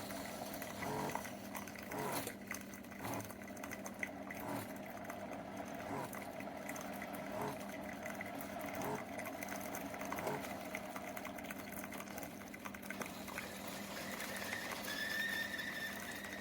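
SIFENE single-serve pod coffee maker brewing: its pump hums steadily while coffee trickles and gurgles into a glass mug, with small irregular knocks. A thin high tone comes in near the end.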